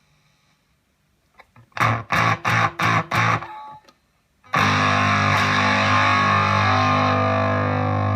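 Electric guitar (Gibson SG 61 reissue, neck pickup) through a Zvex Fuzz Factory fuzz pedal into a Roland Cube 30 amp, with thick fuzz distortion. About six short choppy chord stabs come first, then a brief pause, then a loud chord is struck and left ringing with long fuzz sustain.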